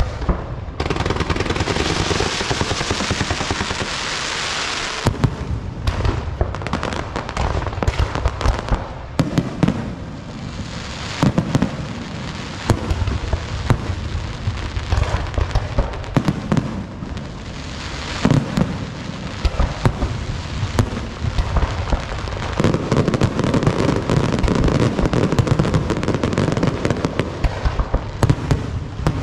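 Fireworks and firecrackers going off in rapid, dense volleys of cracks and bangs, with a stretch of steady hissing in the first few seconds.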